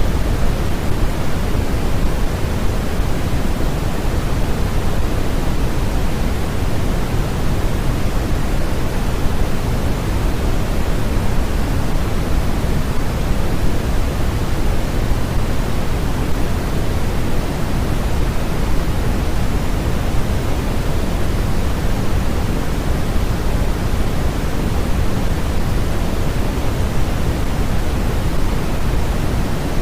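Continuous generated noise, a steady unchanging hiss with more bass than treble, like pink noise.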